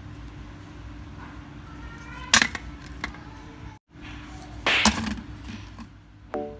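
Two sharp clacks, about two and a half seconds apart, with a smaller tick between them, over a steady low hum.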